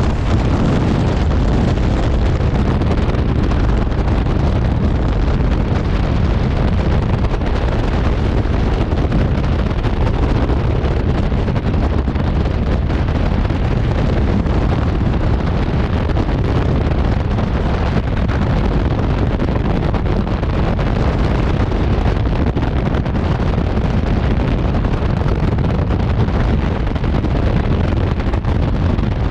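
Steady, loud wind roar on a helmet camera's microphone during skydiving freefall.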